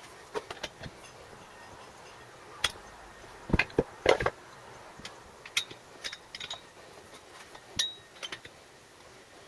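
Metal tools and parts clinking and knocking against each other in irregular sharp strikes, the loudest cluster about halfway through and one short ringing clink near the end.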